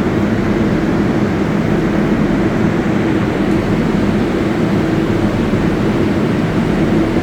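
Steady, loud drone of a New York City Subway (7) train in the station, with a low even hum running through it.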